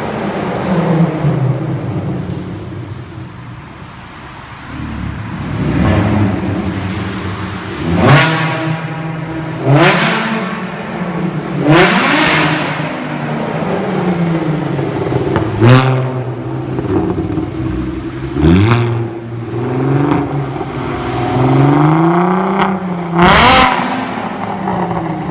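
VW Bora 2.8's VR6 engine breathing through straight-piped exhaust, revved repeatedly: low running between about half a dozen sharp rev blips, each pitch rising fast and sliding back down. The loudest blip comes near the end.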